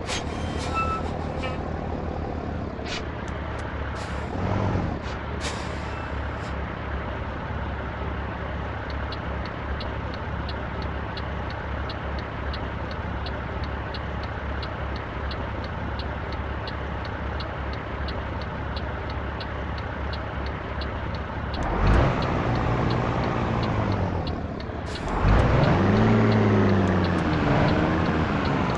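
Truck diesel engine running steadily, with a few short air hisses in the first seconds and a regular light ticking through the middle. Near the end the engine note rises and falls twice, growing louder, as the truck pulls away or changes gear.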